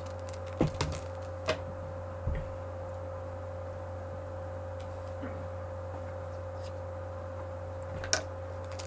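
A few short clicks and knocks in the first couple of seconds and once more near the end, over a steady low hum: small objects being handled and moved about.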